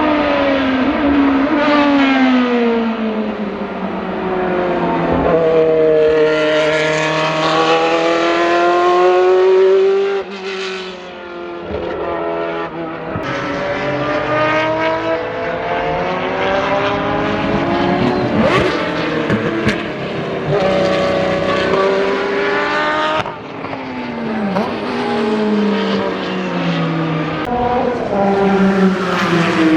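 Group C sports-prototype race cars passing one after another at speed, engines revving up and down through gear changes with the pitch sweeping as each car goes by. Loudness dips briefly between passes about a third and three quarters of the way through.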